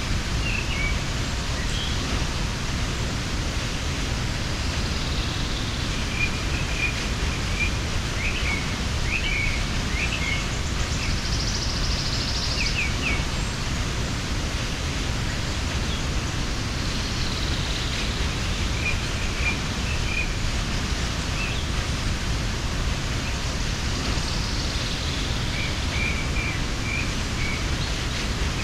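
Steady rush of a mountain waterfall, with small birds giving short runs of high chirps now and then.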